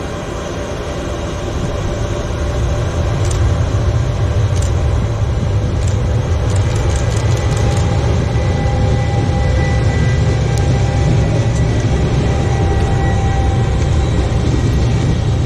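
Regional passenger train, an electric locomotive hauling double-deck coaches, rolling past: a low rumble of wheels on rails that swells over the first few seconds and then holds steady, with scattered clicks early and faint whining tones partway through.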